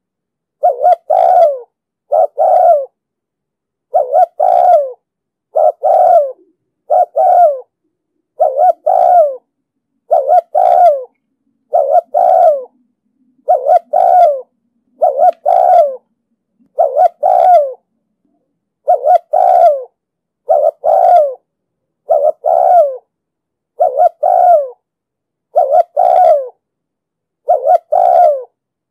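Spotted dove cooing over and over, a short low phrase about every second and a half, with no other sound between the calls.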